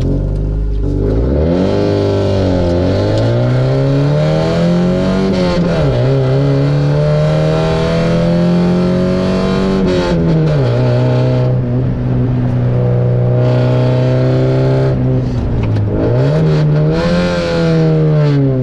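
Opel Frontera engine through a straight-piped exhaust, driven hard through the gears. The engine note climbs, drops at a gear change about six seconds in, holds, drops again around ten seconds, then dips and climbs once more near the end.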